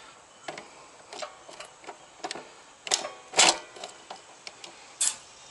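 Irregular clicks and knocks of hard objects being handled, a dozen or so, with the loudest just before and after the middle and one more near the end.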